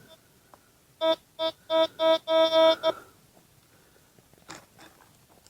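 Metal detector sounding a steady-pitched electronic beep about five times in quick succession over a buried target, the last beep held longer. A couple of faint knocks follow near the end.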